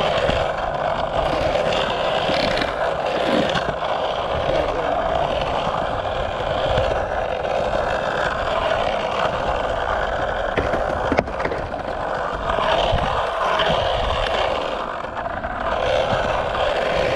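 Skateboard wheels rolling steadily on concrete, with two sharp clicks near the middle.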